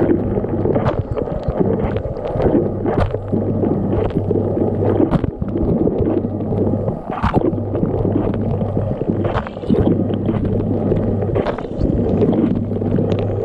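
Dishwasher running a wash cycle, heard from inside the tub: water sprays and churns against the racks and walls in irregular splashes over a steady low hum from the circulation pump.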